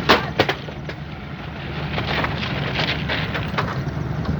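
ALCO diesel-electric locomotive's engine running with a steady low hum as the train pulls away. Two loud, sharp clanks come right at the start, and a run of lighter clatters follows about two to three seconds in.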